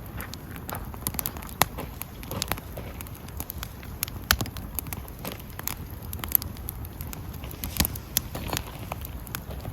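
Wood campfire crackling, with irregular sharp pops over a steady low rush.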